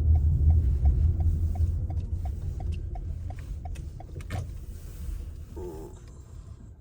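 Car's low road and engine rumble fading as it slows down, with a turn-signal indicator ticking steadily about three times a second that stops about two-thirds of the way through.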